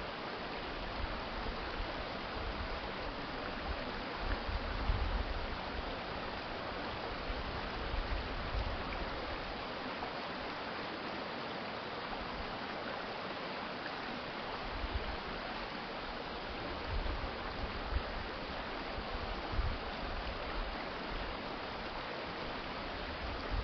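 Urban stream water flowing steadily, with an even rushing sound. Short low rumbles come and go every few seconds over it.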